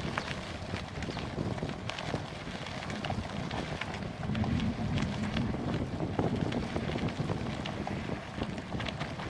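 Wind buffeting the action camera's microphone during a bicycle ride into a headwind, a steady low rumble that swells and eases, with scattered light clicks and rattles from the ride over a rough path.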